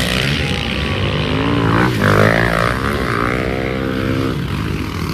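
Pit bike engines racing, their pitch rising and falling as the riders rev and shift, with a pass about halfway through.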